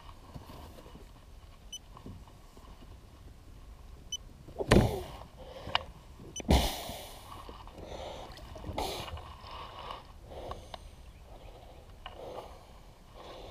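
Handling noise in a kayak on the water: two hard knocks about five and six and a half seconds in, with a few light clicks and some water and rustling noise between them.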